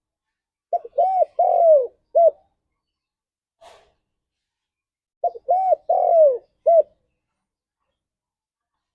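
Spotted dove cooing: two phrases about four and a half seconds apart. Each is a quick stutter, two short arched coos, a longer coo that falls away, and a clipped final note.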